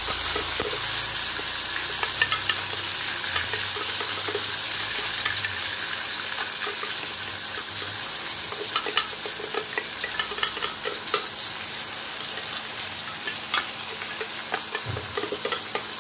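Ground spice paste sizzling as it goes into hot oil with frying shallots in a wok, a steady hiss. Scattered light clicks and scrapes of a spatula against the paste jar and the wok rim come through it, more of them in the second half.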